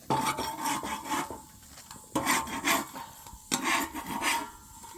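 Something being scraped or rasped in long, hard strokes, three of them about a second and a half apart.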